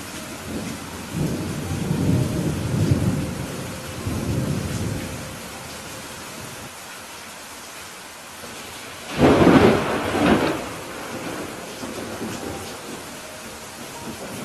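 Steady rain falling in a thunderstorm. A low rolling rumble of thunder builds and fades in the first few seconds, then a sharper, louder thunderclap hits about nine seconds in and rolls off over a second or so.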